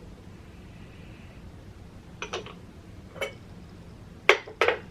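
Light clinks of porcelain teaware being handled: a few small knocks, then two sharper clinks near the end.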